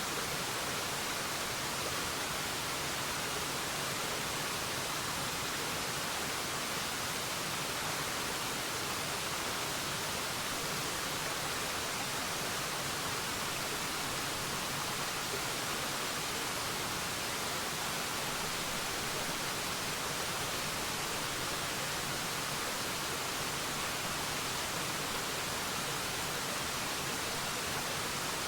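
Waterfall: a steady, unbroken rush of falling water, with more hiss than low rumble.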